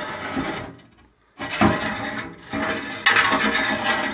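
Parts of a built-in braai being moved by hand, scraping and clattering in several separate stretches with short gaps between them.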